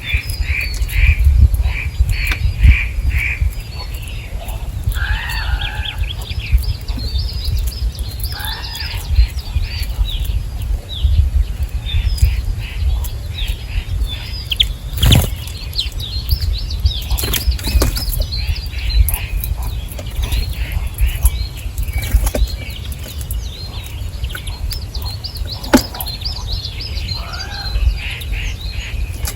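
Many small birds chirping and calling over a constant low rumble, with a few sharp clicks in between.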